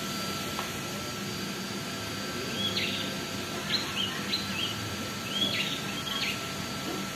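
A bird giving a series of short, sharp chirps, starting about two and a half seconds in, over a steady background hiss.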